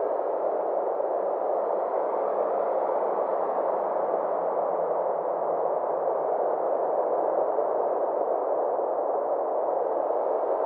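Synthesized ambient space-sound drone: a steady band of mid-pitched filtered noise with a slow sweeping, phasing shimmer in its upper range.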